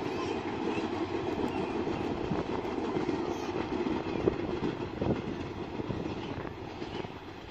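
Dolonchapa Express passenger train running past, its cars rumbling and wheels clicking over the rail joints, slowly fading as it moves away.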